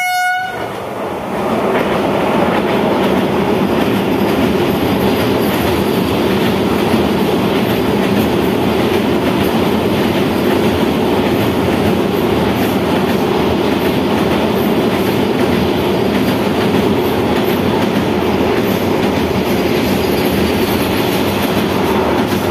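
Vande Bharat electric train set crossing a steel girder bridge, its horn cutting off about half a second in. From about a second and a half in, a loud, steady rumble of its coaches' wheels rolling over the bridge, with faint clickety-clack.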